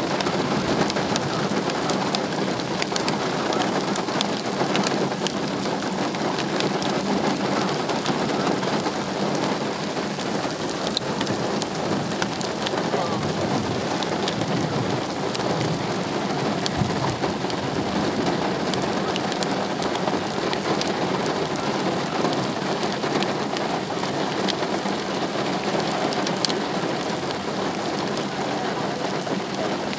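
Steady heavy rain falling, with many sharp drop ticks and a low rumble of thunder underneath.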